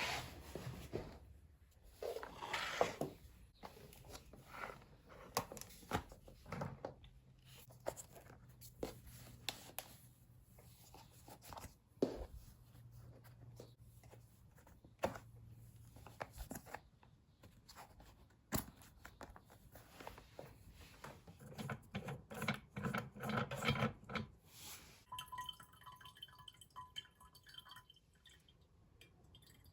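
Household handling sounds: a series of clicks, knocks and scrapes, with a low hum for several seconds in the middle and a short run of soft pulsed beeps near the end.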